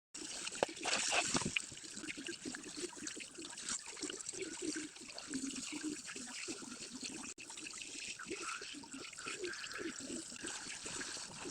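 Water trickling and splashing continuously, with a few louder sharp sounds about a second in.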